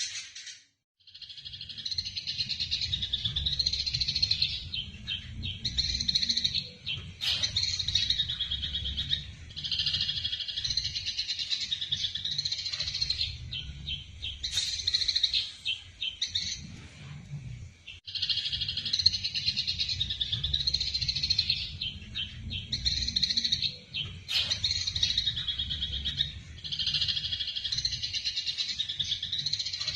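Eurasian tree sparrows giving rapid, dense chirping chatter of the kind sold as sparrow fighting calls, in runs of a second or two with short breaks. A steady low rumble runs underneath.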